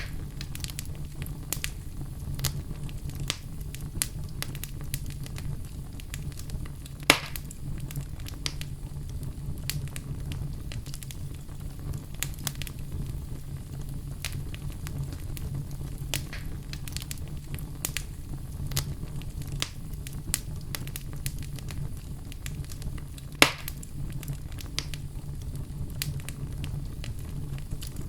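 Wood fire crackling in a fireplace: a steady low rumble under dense small snaps and pops, with two louder pops about sixteen seconds apart.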